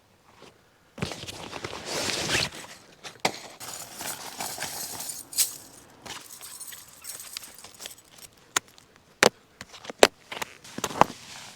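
Footsteps crunching in snow, irregular, with a few sharper clicks in the last few seconds.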